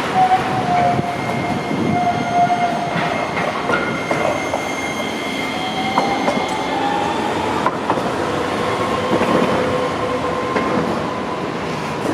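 Streetcar wheels squealing on the rails: several long, steady whistling tones, one slowly rising in pitch, with sharp clicks of wheels running over rail joints, over steady street traffic noise.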